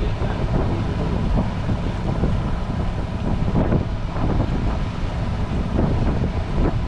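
A boat's engine running steadily, with wind rumbling on the microphone.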